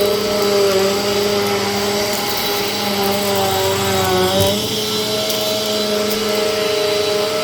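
Vacuum cleaner running, a steady motor whine over rushing air. About halfway through, the motor's pitch sags briefly, with a short low knock, then climbs back up.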